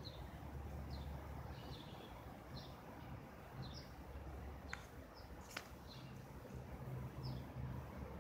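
Small birds chirping, short high chirps about once a second, over a faint low rumble, with two sharp clicks around the middle.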